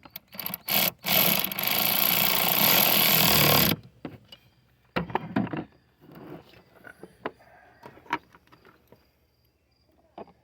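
Power ratchet tightening down a fastener on the hydro-boost brake booster: a few short bursts, then a steady run of about three seconds that stops abruptly. Light clicks and knocks of tools follow.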